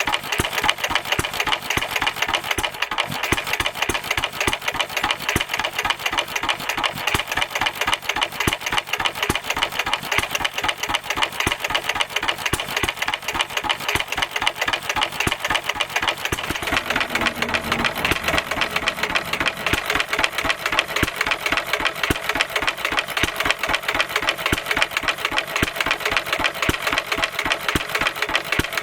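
Stuart half-horsepower stationary engine running steadily, a rapid even train of firing beats, muffled by an extra silencer; its note shifts slightly about two-thirds of the way through.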